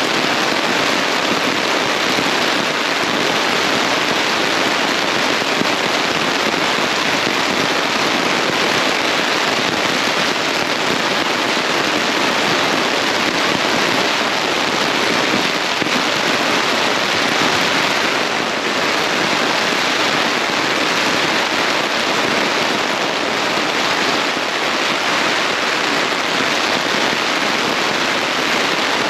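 Heavy rain pounding on the fabric of a four-season tent, heard from inside as a loud, steady, dense patter.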